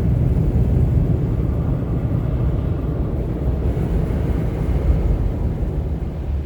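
Automatic car wash dryer blowers running, blowing air over a van as it creeps through: a steady low rush of air.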